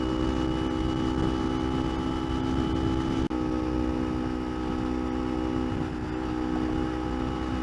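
Kawasaki Ninja 250's parallel-twin engine running at a steady cruise, with low wind rush on the helmet microphone. The sound drops out briefly about three seconds in.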